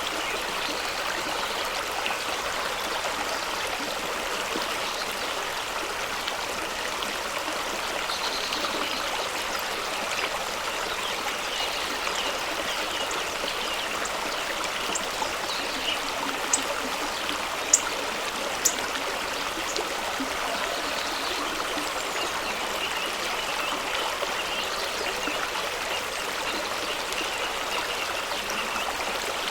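Fast-running stream rushing and splashing over rocks in a steady wash of water, with a few brief sharp splashes or drips at about the middle.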